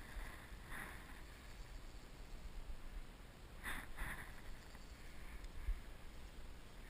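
Quiet outdoor background with a steady low rumble, broken by a few short breathy hisses, one about a second in and a pair close together about four seconds in.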